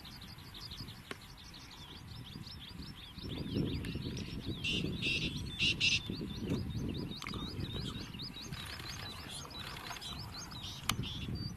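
A bird calling a fast, steady series of short high chirps, about four a second, over a low rumble that comes up a few seconds in.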